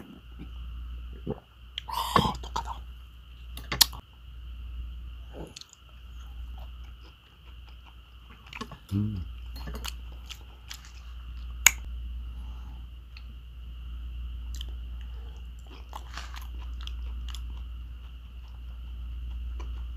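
Close mouth sounds of a man chewing raw catfish sashimi: wet smacking with scattered sharp clicks, the loudest near the middle, over a steady high background chorus.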